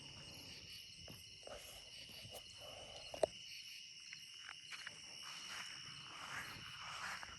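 Steady chorus of chirping insects, with one sharp click a little over three seconds in.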